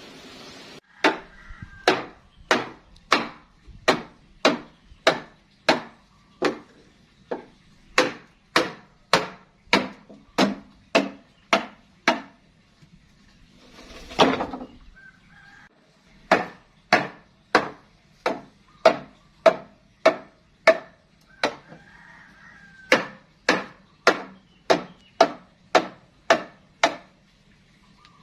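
Repeated sharp chopping strikes, about two a second, each with a short ring. They come in three runs separated by brief pauses, with one longer, scraping burst about halfway through.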